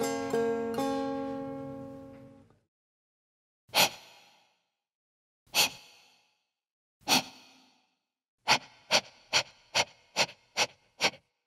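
A plucked-string chord dies away. Then come three separate breathy exhales about a second and a half apart, and then a run of about seven shorter, quicker 'heh' breaths that fade.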